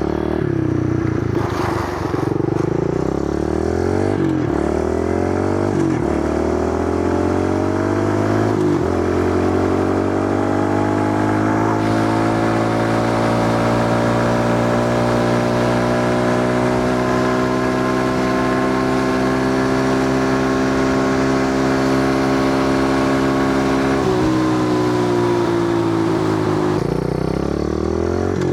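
Kawasaki KLX110 pit bike's small single-cylinder four-stroke engine on a full-throttle speed run. It revs up and drops back at each upshift several times in the first nine seconds, then holds high revs in top gear for a long stretch. Near the end it eases off. With its new taller gearing it no longer reaches the rev limiter.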